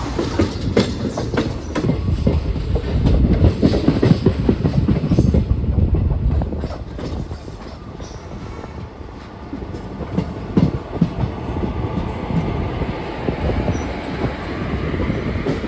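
A train running on the track, its wheels clattering over the rail joints with a low rumble. It eases off for a moment around the middle, then picks up again.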